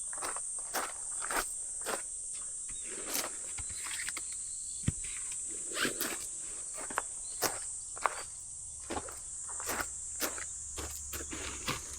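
Irregular taps of water drops falling on a tarp, a few to several a second, over a steady high-pitched insect chirring.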